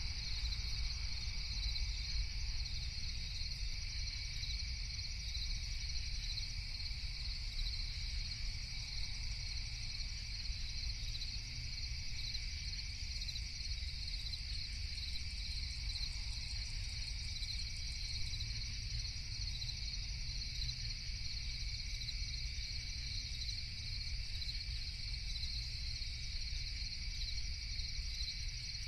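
Crickets chirping in a steady, unbroken night chorus, over a low steady rumble.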